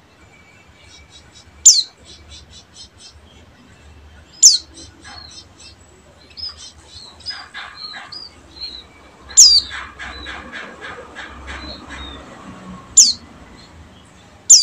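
White-eye (pleci) singing a fast twittering song: sharp, high notes sliding downward every few seconds, each followed by a rapid run of short chattering notes.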